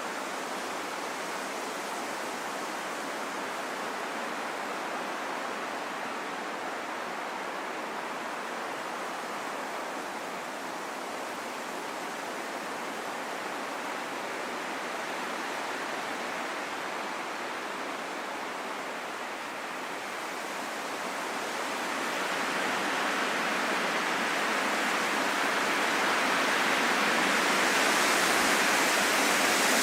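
Steady rushing wind with no whistle or tone. About two-thirds of the way in it swells into a stronger, brighter gust that peaks near the end.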